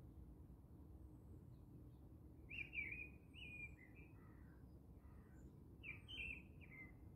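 A small bird chirping in two quick runs of short, pitch-bending notes, the first about two and a half seconds in and the second about six seconds in. Between them is only a faint low background rumble.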